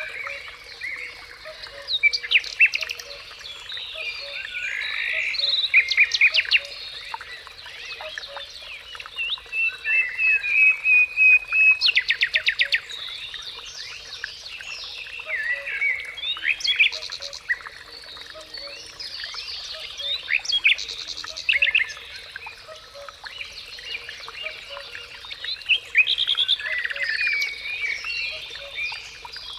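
Several songbirds singing and calling outdoors, a mix of chirps, short whistles and fast trills, over a soft low call repeated evenly throughout.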